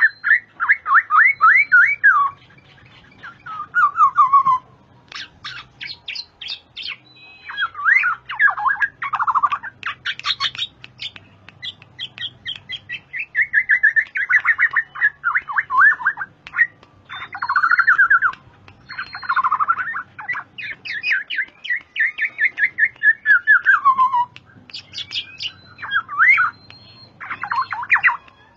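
Black-naped oriole (kepodang) calling in repeated phrases of rapid, harsh chattering notes, some sliding down in pitch, with short pauses between phrases.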